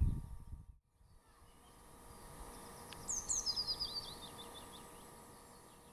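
A low rumble that cuts off sharply under a second in, then faint outdoor ambience with a songbird's short song about three seconds in: two high notes followed by a quick descending trill. The ambience fades out near the end.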